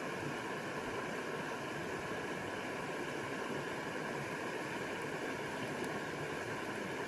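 Running stream water, a steady rushing and gurgling without a break.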